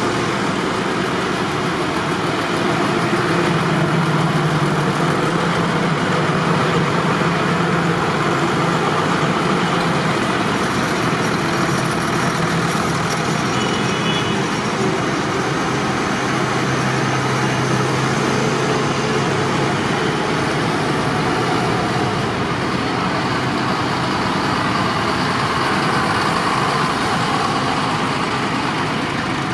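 Tractor engines running, a steady loud drone with an engine hum that shifts in pitch now and then.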